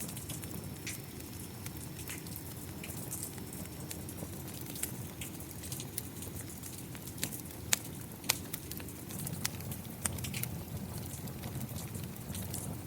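Wood fire crackling, with irregular sharp pops, two of them louder near the middle, over a steady rush of rain.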